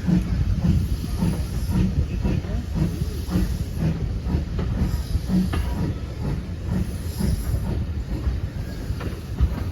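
Steam-hauled passenger train behind GWR Manor class locomotive 7828 Odney Manor, heard on board as it gets under way: a steady rolling rumble with some steam hiss and a repeating beat about twice a second.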